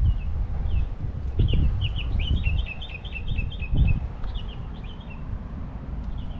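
A songbird singing a quick run of repeated chirping notes about a second and a half in, with scattered single calls before and after it and again near the end. Low rumbling thuds sit underneath and are the loudest part, strongest twice.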